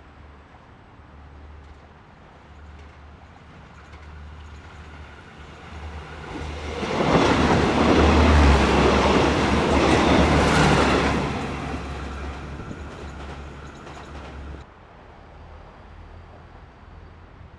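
A set of THN/NKF diesel railcars passes, its engines humming and its wheels rumbling on the rails. The sound swells to a loud peak a few seconds in, then fades, and drops away abruptly near the end.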